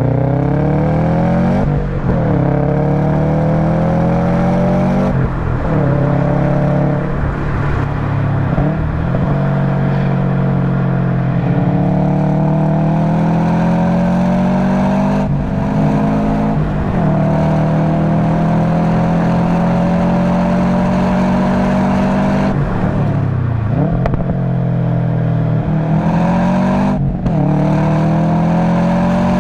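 Subaru WRX STI's turbocharged flat-four engine at full throttle through an Invidia Q300 cat-back exhaust, the only engine modification on an otherwise stock car. The engine note climbs steadily through each gear and drops sharply at each shift, again and again.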